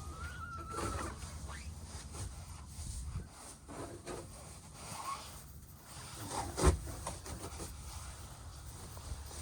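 Backyard hens making soft calls and murmurs while they feed, with one drawn-out call in the first second. A sharp knock about two-thirds of the way through is the loudest sound.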